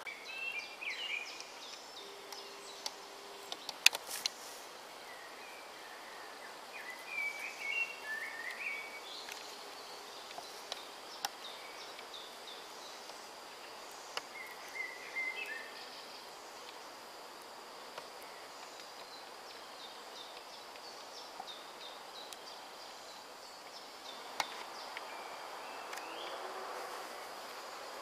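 Woodland ambience: a songbird sings short phrases of quick notes now and then over a steady faint hiss, with a couple of sharp clicks about four seconds in.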